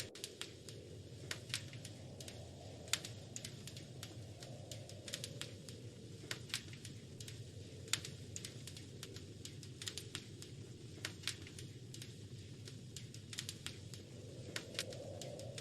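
Wood fire crackling, with irregular sharp pops and snaps over a low, steady rush of flames.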